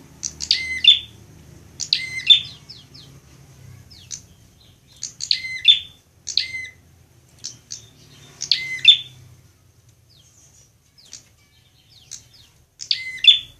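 Prinia (prenjak) singing: short, sharp chirping phrases of several rapid notes, repeated every one to few seconds with pauses between, the kind of song bird keepers play to tutor a caged prinia.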